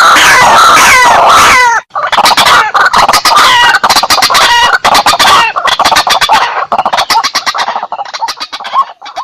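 White-breasted waterhen (ruak-ruak) calls from a hunters' lure recording: loud, rapid repeated calls with downward-sliding notes. They are dense and overlapping at first, break off briefly about two seconds in, then resume and grow sparser toward the end.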